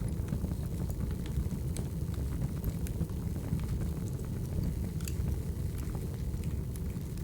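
Wood fire burning: a steady low rush of flame with frequent small, irregular crackles and pops from the burning logs.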